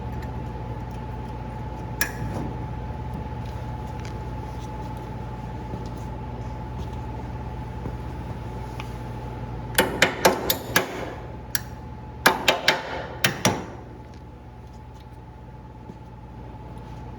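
Sharp metal-on-metal knocks in two quick runs of about five or six strikes each, the first about ten seconds in and the second about twelve seconds in. The strikes come from steel parts being knocked while a plow shoe is fitted to a snow plow. Under them runs a steady hum that eases off near the end.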